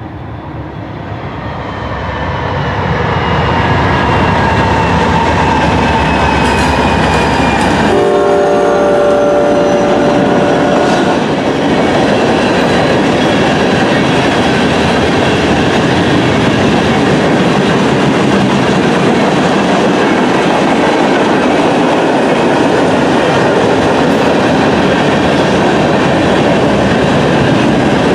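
Norfolk Southern freight train passing a grade crossing. The locomotives grow louder over the first few seconds, and a chord on the train horn sounds for about three seconds. Then the freight cars roll past with a steady clatter of wheels over the rail joints.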